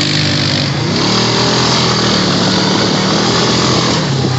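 Honda Rancher ATV's single-cylinder engine running under throttle while riding; its pitch climbs about a second in, holds, and eases off near the end, over a steady hiss.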